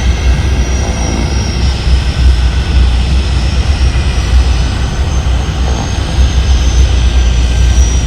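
Steady engine drone with a deep rumble and a faint high whine that slowly falls in pitch.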